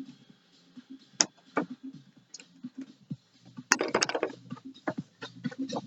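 Scattered clinks and knocks of hand tools and metal parts being handled while a Yamaha XLT jet ski engine is taken apart, with a short burst of rattling clicks about four seconds in.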